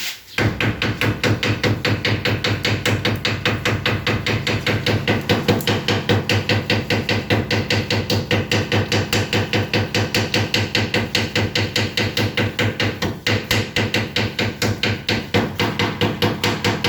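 Rapid, even hammer tapping on rusted steel ceiling framing, about five strikes a second without a pause, knocking rust and ceiling debris loose.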